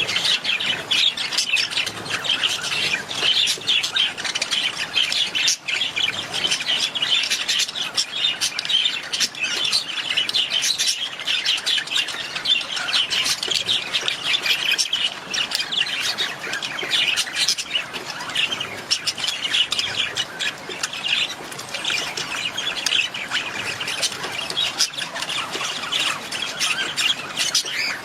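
A flock of budgerigars chattering, many short calls overlapping in a constant, dense stream.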